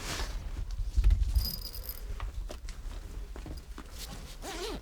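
Light rustling and scattered soft knocks, with a low thump about a second in and a brief high steady tone shortly after.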